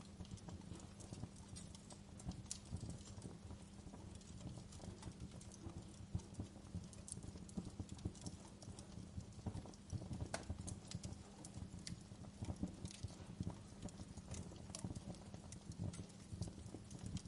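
Wood fire in a fireplace crackling: irregular snaps and pops of burning firewood over a steady low rumble of flames, with a sharper pop about ten seconds in.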